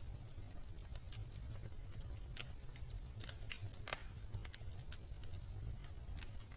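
Wood fire crackling in a fireplace: irregular sharp pops and snaps, a couple of them louder, over a low steady rumble.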